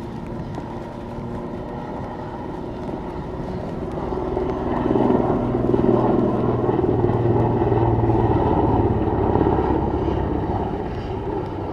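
Airbus H215 Super Puma twin-turbine helicopter flying past with rotor chop and turbine noise. It grows louder about four seconds in, peaks through the middle, then fades as it moves away.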